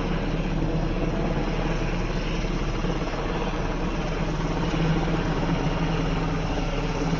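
Sikorsky UH-60 Black Hawk helicopter running steadily, its twin turboshaft engines and rotor giving a constant hum and rush.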